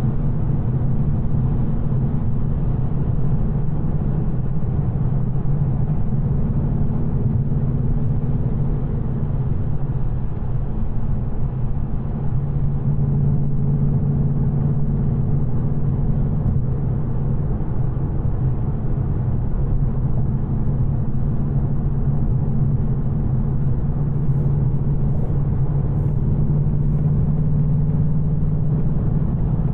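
Ford Mustang GT's 5.0-litre V8 engine on the stock exhaust, running steadily while the car cruises, with a short dip in level about twelve seconds in.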